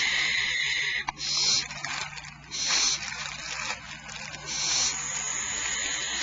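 Barn owl nestlings hissing in the nest cavity: long, harsh hisses that come again about every one and a half to two seconds.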